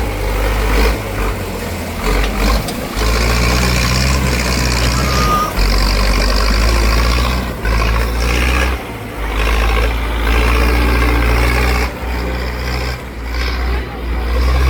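Tractor engine running hard with a heavy low rumble, its level dropping briefly several times.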